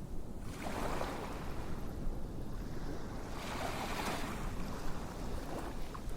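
Ocean waves washing in, two swells about three seconds apart over a steady low rumble.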